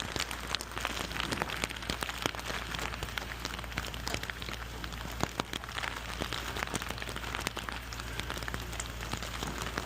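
Rain falling and pattering on a hard surface close by, with many sharp individual drop ticks over a steady rain hiss, and a steady low hum underneath.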